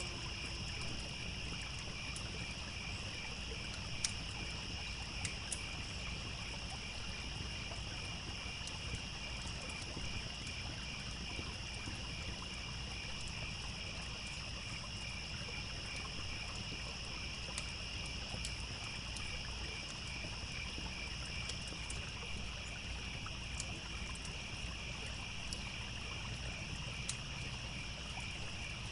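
Steady chorus of crickets chirping, with scattered sharp crackles from a campfire and a low steady rush of a stream underneath. The tail of a wolf's howl falls away in the first moment.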